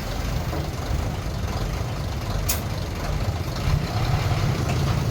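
Heavy diesel engine of earthmoving machinery running steadily with a low rumble, and a single sharp knock about two and a half seconds in.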